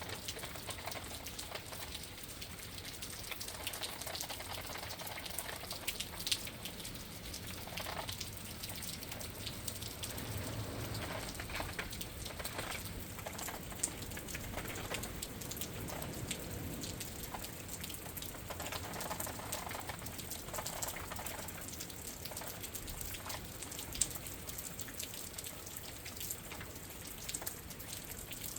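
Rain pattering steadily against a window, heard from indoors, with dense fine drop ticks and a few sharper single taps. Wind whooshes in slow swells that come and go.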